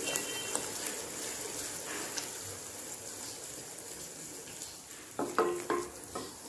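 Tomato-garlic chutney paste sizzling in oil in a nonstick kadai as it is stirred with a wooden spatula, with a few quick scraping strokes of the spatula near the end.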